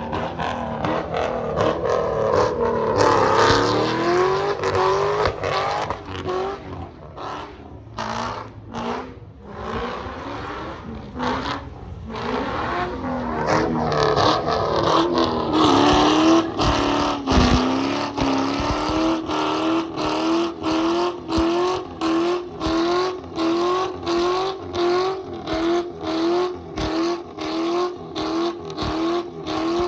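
Car engine revving hard at a sideshow, its pitch climbing in long pulls; from about two-thirds of the way in it settles into a rhythmic pulse, the note rising and falling about one and a half times a second.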